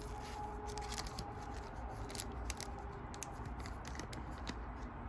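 Pokémon trading cards being handled and sorted: a run of light, quick clicks and slides of card on card. A faint steady hum lies underneath and fades out about three seconds in.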